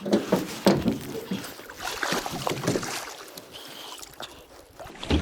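Water sloshing and splashing around a small fishing boat, with a few short knocks and clatter of handling on board in the first second or so.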